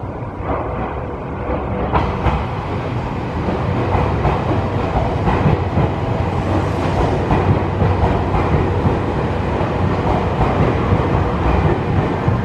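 Nankai 50000 series Rapi:t electric train running through the station, its rumble and wheel clatter on the rails growing louder over the first few seconds, then steady.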